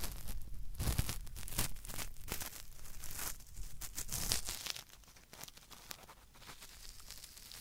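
Cotton swab rubbed firmly against the left ear of a binaural ear-cleaning microphone, giving dense crackly, scratchy strokes; about five seconds in the scraping drops to quieter, lighter rubbing.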